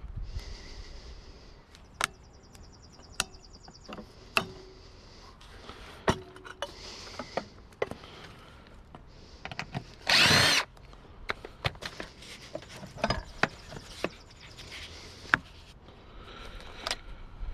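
A power drill runs in one short burst about ten seconds in, amid scattered knocks and clicks of the water cooler's parts being handled while it is taken apart.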